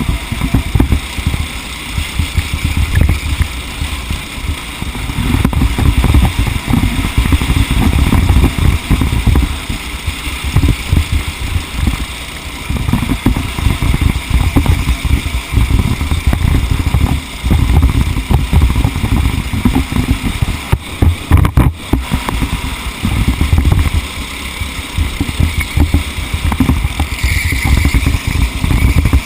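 Onboard sound of a TaG racing kart's engine running under load, with heavy wind rumble on the microphone; the level rises and falls every few seconds.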